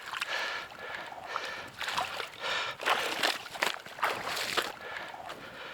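A large common carp thrashing in a landing net, splashing and sloshing water in irregular bursts.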